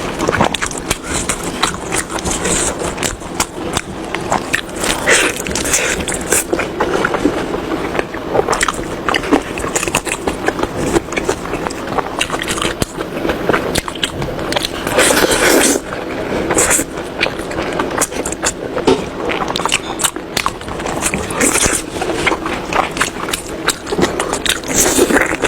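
Close-miked eating sounds: a person biting and chewing food, with a dense run of wet mouth clicks and smacks.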